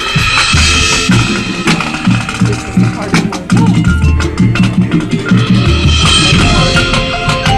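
A high school marching band playing, with a drum line of bass drums and snare drums driving a steady rhythm under sustained pitched parts.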